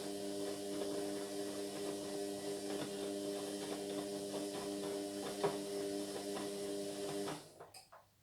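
Indesit MyTime washing machine running with a steady electric hum and faint clicks, cutting out about seven seconds in, with a few fading knocks as it stops.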